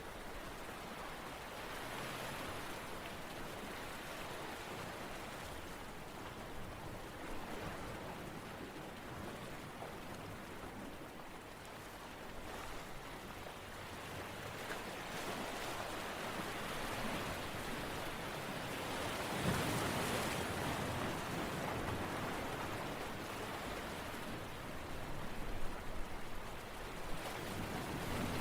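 Steady rushing noise like rain or surf, swelling and fading slowly, with a louder low rumble about two-thirds of the way through and a few sharp crackles near the end.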